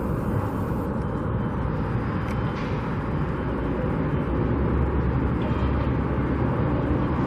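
Steady road traffic noise, a low rumble of passing vehicles that grows a little louder about halfway through.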